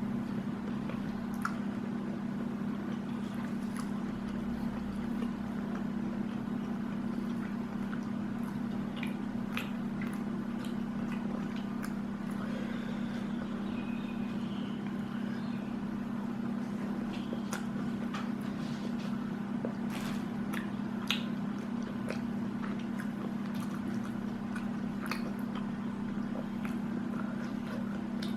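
Eating sounds: chewing, with scattered small clicks and smacks of food and utensils, over a steady low hum.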